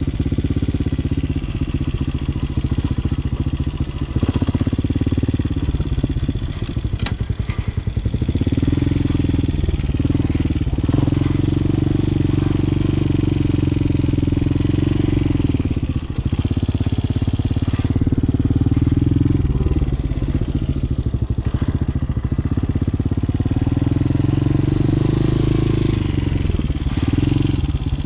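Motorcycle engine running at low speed, its pitch rising and falling every few seconds with the throttle as the bike rides slow figure eights.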